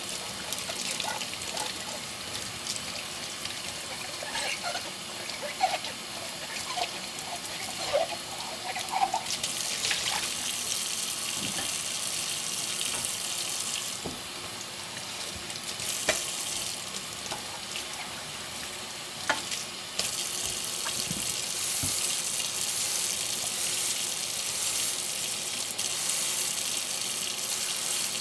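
Tap water running into a kitchen sink during hand dishwashing, the flow changing strength a few times, with occasional light clinks of dishes.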